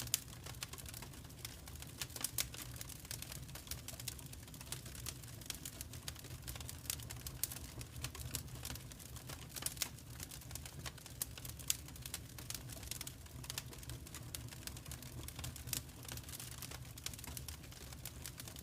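Fireplace fire crackling, with irregular sharp pops and clicks over a low, steady rumble.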